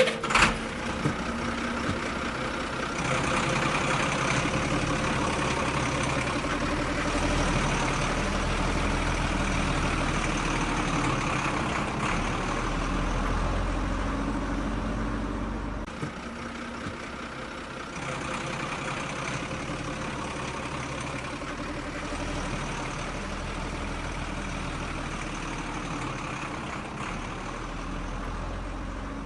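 Steady engine running noise, like a vehicle idling and working. It grows a little louder about three seconds in, drops briefly about halfway through, then carries on evenly.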